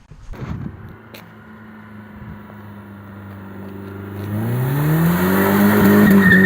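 Car engine running at a steady low hum, then revving hard about four seconds in: it gets much louder and rises in pitch, holds, and begins to fall again near the end, with a brief high squeal.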